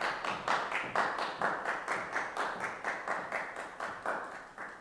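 A small audience applauding, a patter of separate hand claps that tails off near the end.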